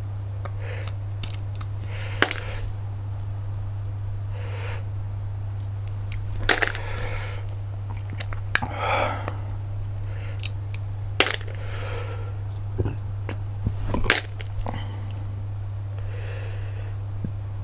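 Cockle shells clicking sharply now and then while the cockles are eaten close to the microphone, with short bursts of sucking and chewing in between. A steady low hum runs underneath.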